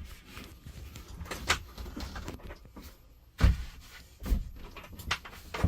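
Scattered knocks and clunks from hands-on work fitting an upper bunk in a truck's sleeper cab, with one loud thump about three and a half seconds in and lighter ones after it.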